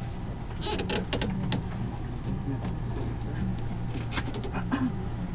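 Steady low hum inside a stationary electric train car, with scattered sharp clicks and rustles about a second in and again near the end.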